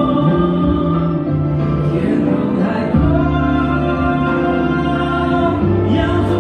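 Music: a pop song playing, with long held notes that change about every three seconds.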